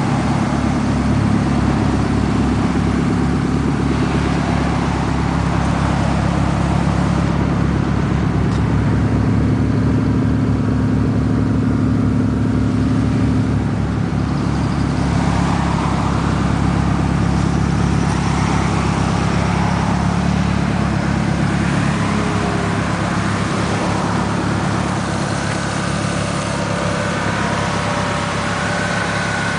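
1993 Toyota Supra's twin-turbo 2JZ-GTE straight-six idling steadily.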